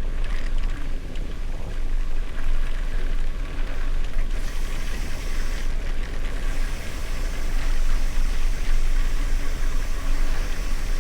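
Wind buffeting a camera microphone on a moving gravel bike, over the steady crunch and rattle of tyres rolling on a gravel road.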